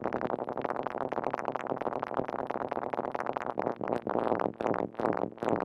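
Moog Mother-32 analog synthesizer playing a rapid, irregular stream of short pitched notes. Its modulation comes from a Comdyna GP-6 analog computer solving the Lorenz chaos equations. The notes become more clearly separated in the second half.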